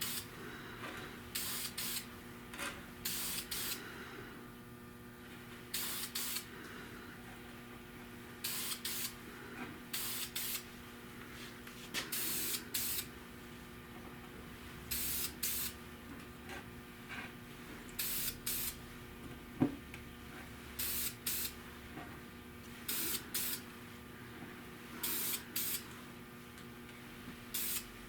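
Spray paint hissing out in many short bursts, often two close together, as black paint is sprayed onto a car's engine cooling fan. A single sharp knock comes about two-thirds through.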